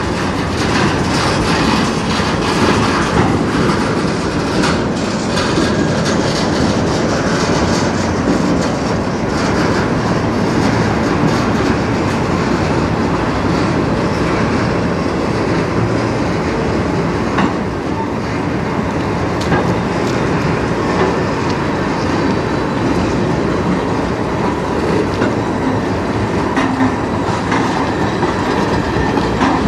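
Freight cars of a mixed manifest train rolling past: a steady rumble of steel wheels on the rails, with the clickety-clack of wheels passing over rail joints.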